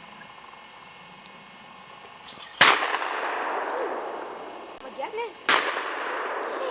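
Two shotgun shots about three seconds apart, each trailing off in a long echo: clay bird shooting.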